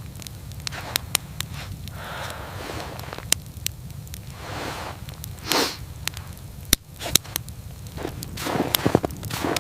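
Wood fire crackling with scattered sharp pops, busier near the end, with a few soft swishing sounds in between.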